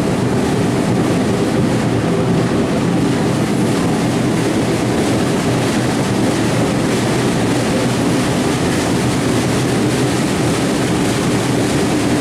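Train running steadily: a continuous, even noise with no distinct chuffs or clanks standing out.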